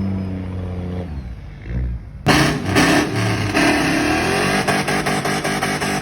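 Truck engine running at high revs, then a sudden, much louder stretch of hard revving with rapid crackling from about two seconds in.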